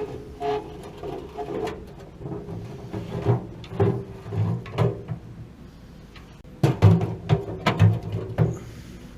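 Irregular knocking and clattering of tools and metal parts being handled, in two clusters of sharp knocks, over a faint steady hum.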